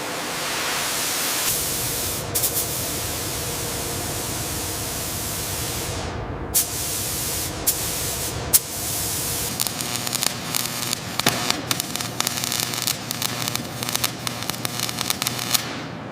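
A steady, loud spraying hiss that cuts off about six seconds in. A few sharp clicks follow, then a dense, irregular crackling through the second half.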